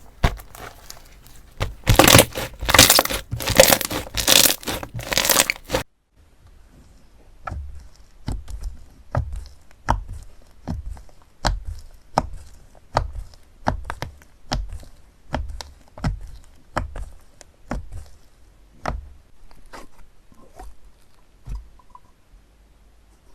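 Slime being worked by hand. First a dense, loud crackling and tearing for about six seconds, which cuts off abruptly. Then a run of separate sharp pops and clicks at about two a second, as the slime is pressed and squished.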